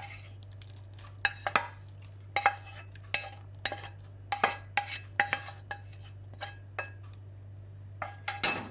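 A metal spoon knocking and scraping against a steel vessel, about a dozen short ringing clinks at uneven intervals, as sautéed onion is spooned out of the pan into beaten eggs.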